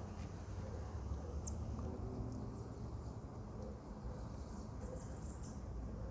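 Common marmosets calling: scattered short, very high-pitched chirps and one brief falling whistle about one and a half seconds in, over a steady low rumble.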